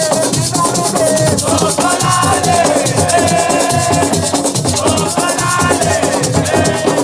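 Loud live percussion music: fast, continuous shaker rattle over a busy drum beat, with a melody in long held notes above it.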